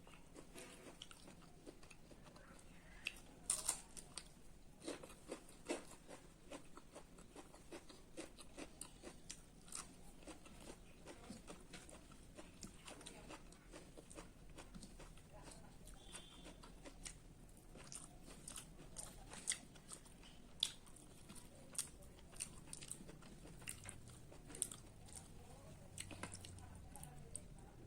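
Faint close-up chewing and mouth clicks of a person eating, with scattered small crunchy bites.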